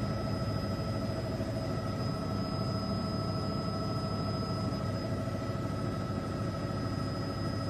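Helicopter cabin noise: a steady drone and rumble with several steady whining tones, unchanging throughout.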